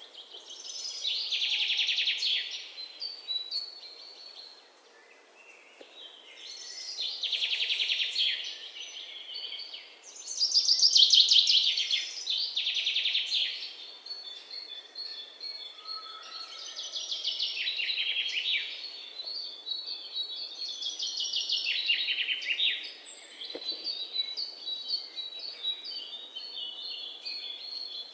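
Songbirds singing: a song with a fast trill repeats every few seconds, with thin, high, repeated chirps from other birds between the songs.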